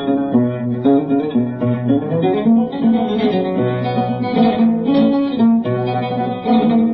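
Instrumental passage of Arabic music: a plucked string instrument, an oud, playing a melodic line of quick successive notes without singing.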